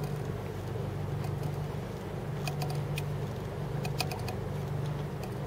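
Boat engine idling with a steady low hum, with a few sharp clicks and taps from about halfway through.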